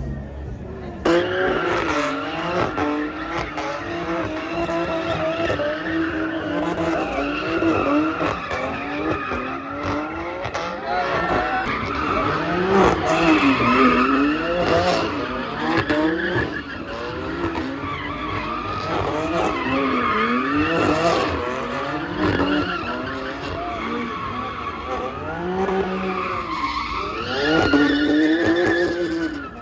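A car's engine revving up and down over and over, with tyres squealing as the car slides through a drift. The sound starts suddenly about a second in.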